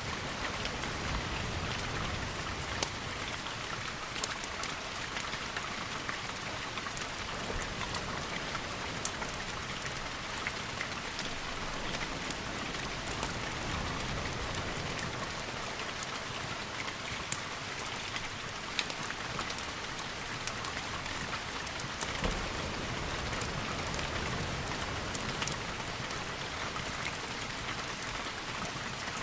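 Steady rainfall, a constant hiss with many scattered sharp ticks of drops striking a surface.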